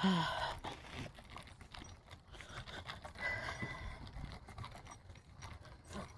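Footsteps walking along a park path, a string of light irregular knocks, with a short voice sound right at the start.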